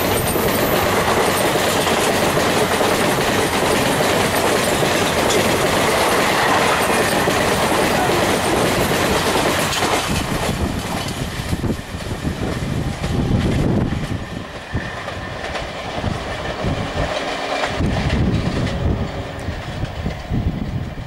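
Passenger train running past on the track, its coach wheels clattering over the rail joints. The steady rush fades about halfway through, leaving separate bursts of clickety-clack as the last coaches go by.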